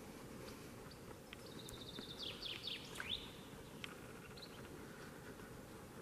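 A songbird sings one short phrase about one and a half seconds in: a quick run of repeated high notes, then several falling sweeps, over a faint hiss of the forest.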